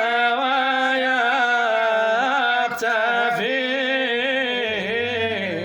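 Unaccompanied male voice chanting a Sufi devotional ode, drawing out long ornamented held notes. There is a short break for breath about three seconds in, and near the end a low steady note sounds beneath the melody.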